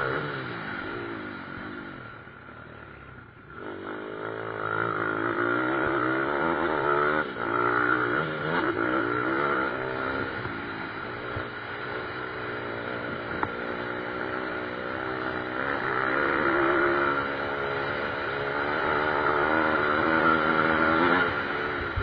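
Pit bike engines (small single-cylinder motorcycles) revving up and down repeatedly as they race, dipping for a moment a couple of seconds in and then picking up again.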